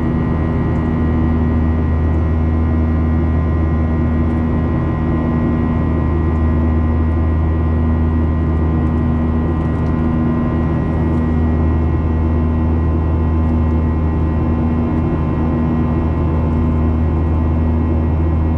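Steady, unchanging drone of a Boeing 737-800 in flight, its two CFM56 jet engines and airflow running together with several steady hum tones.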